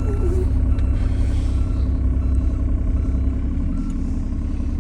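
Mini excavator's small diesel engine running steadily under load, with an alarm sounding short evenly spaced beeps, roughly one every three-quarters of a second, fading through the first few seconds.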